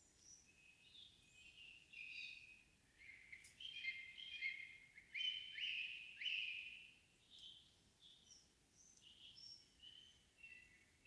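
Evening forest songbirds singing: a run of varied, quick phrases of whistled and downward-sweeping notes, loudest in the middle, over a faint, calm background.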